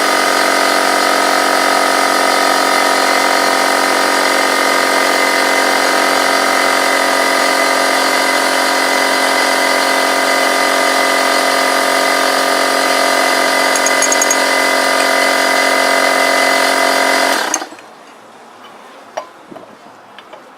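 A motor running at constant speed, a loud, steady drone that cuts off suddenly about seventeen seconds in; a few faint clinks follow.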